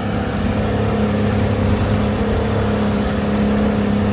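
A small fishing boat's engine running steadily at low speed with an even, constant hum.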